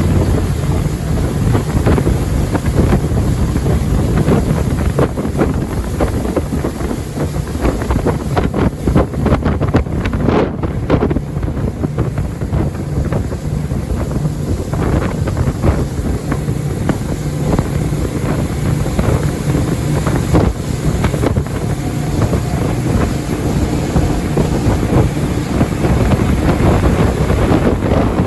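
Jet boat running on the river, its engine drone nearly buried under heavy wind buffeting on the microphone.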